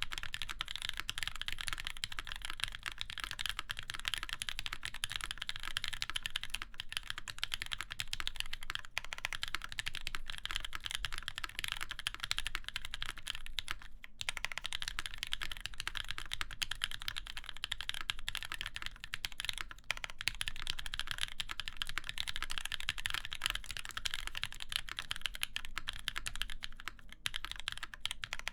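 Continuous fast typing on a Keycult No. 2 mechanical keyboard with lubed NovelKeys Cream linear switches, an aluminium full plate and GMK keycaps: a dense run of key clacks with a brief pause about fourteen seconds in.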